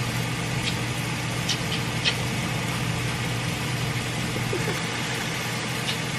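Steady hum of a running household electric motor, even in pitch throughout, with a few faint light ticks.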